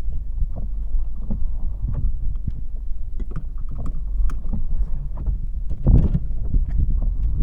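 Road and wind noise inside a moving car: a steady low rumble with scattered knocks and clicks, and a louder thump about six seconds in.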